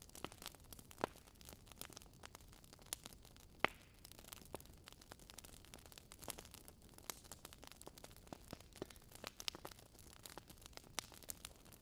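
Campfire crackling: irregular sharp pops and snaps over a soft hiss, with one louder pop a little past three and a half seconds in.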